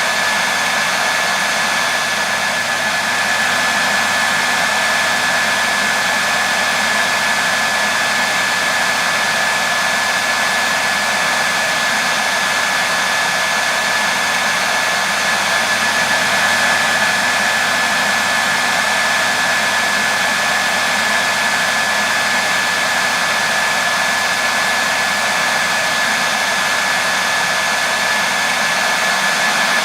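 Hair dryer running continuously: a steady rush of blown air with a thin, constant whine from its fan motor.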